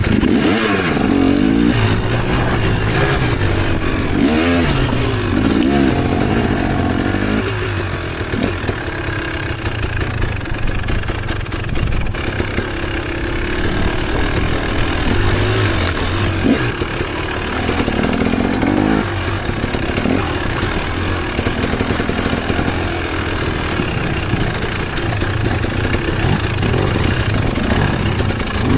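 Enduro dirt bike engine, revving up and easing off again and again as it picks its way through a rocky creek bed.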